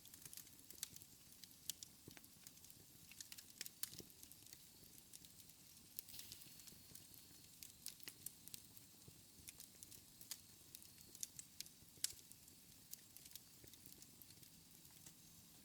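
Wood fire in a fireplace crackling: irregular sharp pops and snaps over a faint low rumble, with one louder pop about twelve seconds in.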